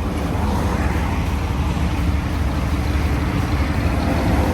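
GMC Jimmy's engine running steadily with road noise as the truck struggles to gain speed. Its automatic transmission gets only into first and part of second, never into third.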